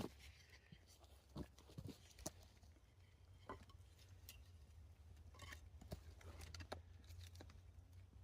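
Dry kindling in a newly lit campfire crackling faintly as it catches, with scattered sharp irregular pops.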